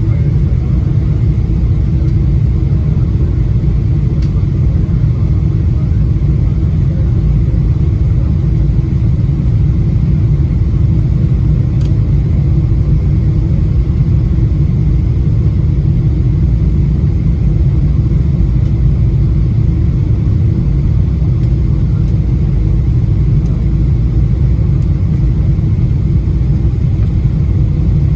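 Steady low rumble inside the cabin of a Boeing 777-200LR: its GE90 engines and the airflow around the fuselage during descent, with no change in level.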